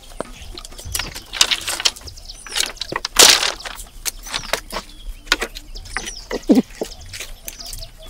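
Birds calling over and over with short falling calls, among scattered knocks, clicks and scraping noises.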